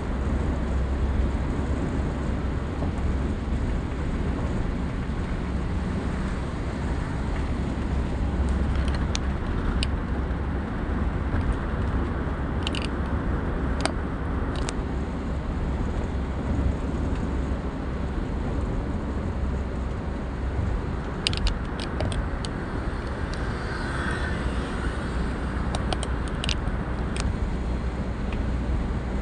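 Car driving along a highway at speed: a steady low rumble of engine and tyres on the road, with a few short clicks scattered through it.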